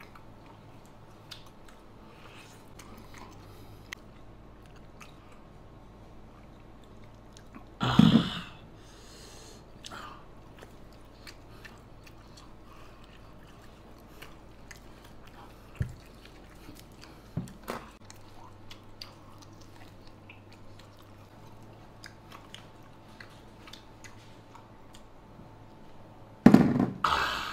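Close-up chewing and gnawing of meat from soy-braised beef bones, with small wet mouth clicks. Two louder mouth noises break in, one about 8 seconds in and one near the end.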